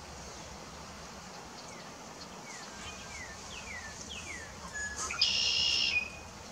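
A bird singing a run of short whistled notes that slur downward, about half a second apart, followed near the end by a loud, harsh buzz lasting under a second.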